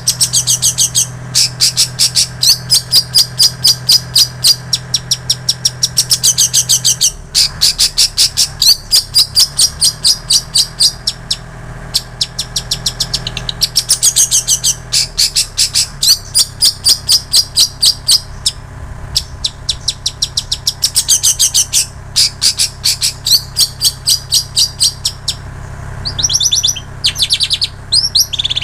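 Long-tailed shrike singing in bouts of rapid, high-pitched repeated notes a few seconds long with short breaks between them. Its song is a medley mimicking plain prinia and canary. Near the end the notes change to a more varied run of chirps.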